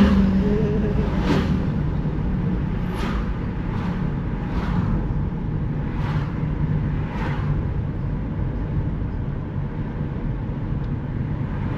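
Steady engine and road noise of a moving car, heard from inside the cabin, with a few faint, unevenly spaced knocks.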